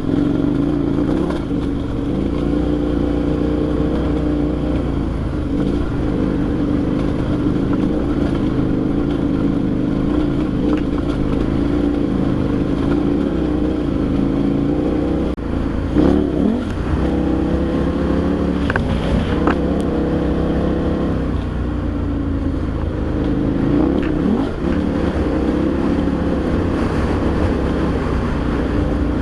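KTM V-twin adventure motorcycle engine running under way, with road and wind rumble. The engine note falls and climbs again a couple of times, around the middle and near the end, as the throttle changes.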